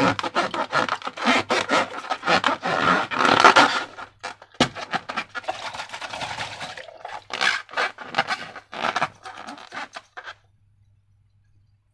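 Slime and balloon rubber being handled and squeezed: a busy run of sticky rubbing, scraping and crackling noises that stops about ten seconds in.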